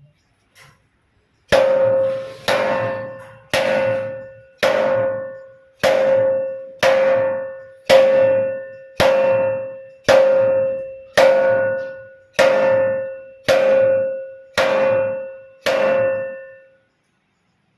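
A pitched, ringing percussive strike repeated about fourteen times at a steady pace of roughly one a second, each hit ringing out and fading before the next.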